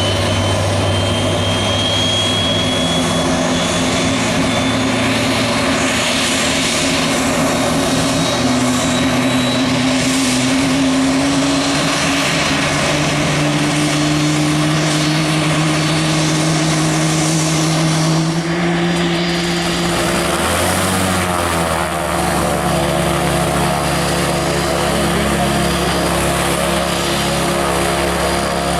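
Aircraft engines running steadily close by, their tones slowly rising in pitch, then shifting about twenty seconds in before settling to a steady pitch again.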